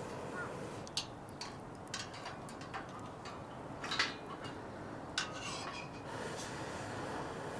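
Camp cookware being handled: half a dozen separate light clinks and taps, the loudest about four seconds in, over a steady low hiss.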